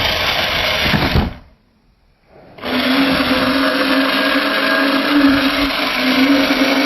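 Steady whirring of a small motor, cutting out for about a second near the start and then running on with a steady hum.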